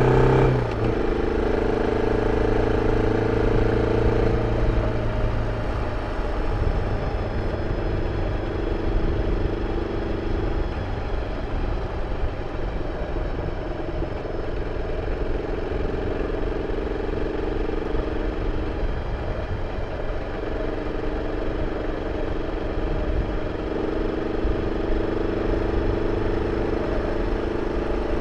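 BMW F 650 CS single-cylinder engine running on the stock exhaust. Its note drops sharply about half a second in and then holds fairly steady, shifting a few times, over a constant low rumble.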